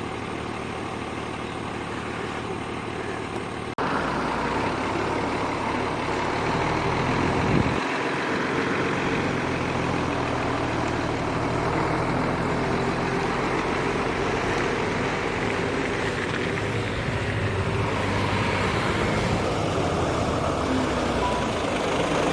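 A vehicle's engine running steadily while under way, with a constant rush of running noise. About four seconds in, the sound cuts abruptly to a louder stretch of the same kind of running noise.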